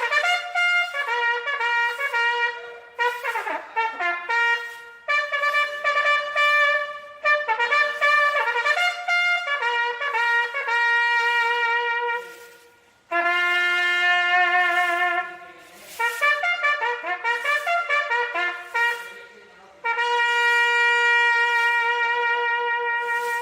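A solo bugle playing a naval military bugle call: runs of short, quick notes broken by long held notes, one of them about halfway through and another for the last few seconds.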